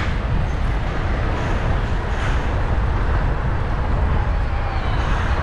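Wind buffeting a bicycle-mounted action camera's microphone as a low, steady rumble, over the noise of road traffic while cycling.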